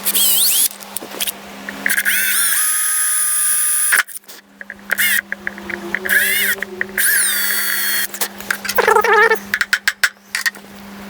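Handheld electric drill drilling through a motor-mount block, run in several short bursts, its motor whine rising each time it spins up. A brief wavering squeal sounds late on.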